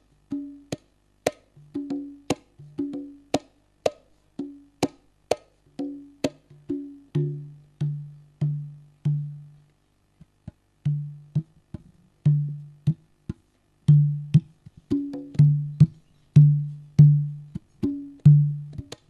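Percussion music played through a PA sound system for a sound check: sharp wood-block-like clicks over short deep drum tones in a steady rhythm.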